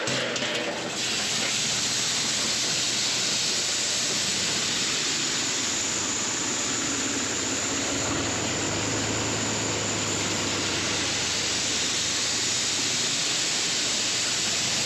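Steady rushing hiss of dry shelled corn pouring through a grain auger into a bin, with a low tractor engine hum underneath that comes up about halfway through.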